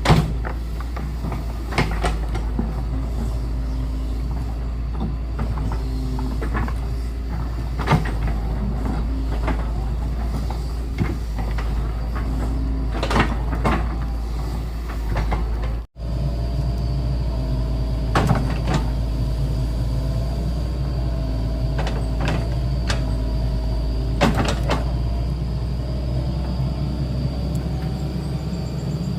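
Diesel excavator engine running steadily, with scattered knocks and clanks from the machine at work and a faint steady whine in the second half.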